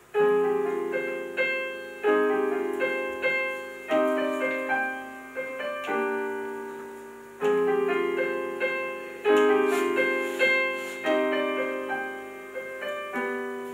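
Piano introduction to a song: chords and melody notes struck every second or two, each ringing and fading before the next.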